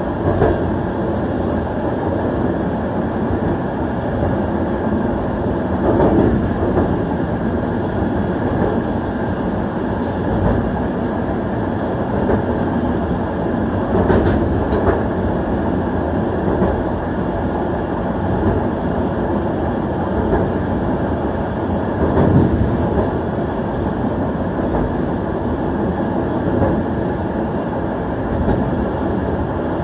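A passenger coach's wheels running on the rails, a steady rolling rumble. Brief louder bumps come about 6, 14 and 22 seconds in, as the wheels pass over track joints or points.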